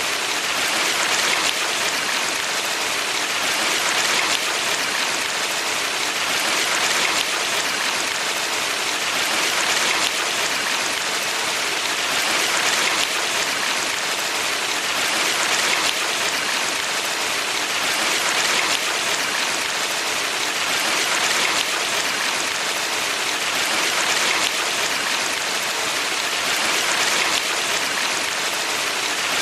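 Valley stream water flowing over rocks in a steady rushing hiss, swelling and easing slightly every few seconds.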